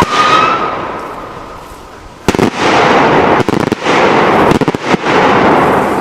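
Homemade fireworks: a whistling firework's whistle ends in a sudden burst, leaving a hiss that fades away. About two seconds in, another loud burst sets off a dense, crackling rush of noise that carries on.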